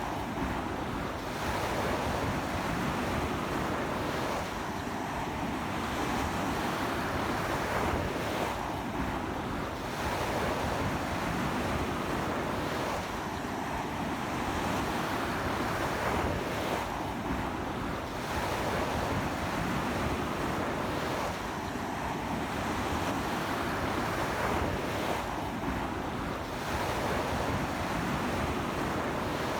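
Sea waves breaking and washing onto a beach in strong wind: a dense, unbroken surf wash that swells and eases about every four seconds, with wind buffeting the microphone.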